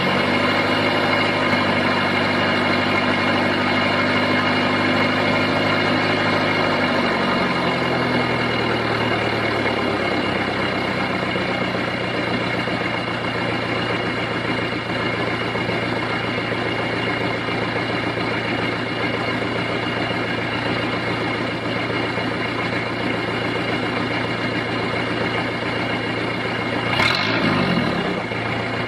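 Isuzu Trooper's 3.1-litre 4JG2 four-cylinder diesel idling just after a cold start through a free exhaust. The fast post-start idle drops to a lower steady idle about eight seconds in, and there is a brief rise in pitch near the end.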